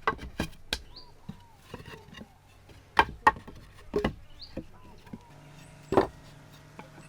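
Sharp knocks at irregular intervals, about seven of them, with short bird chirps in between. A steady low hum comes in about five seconds in.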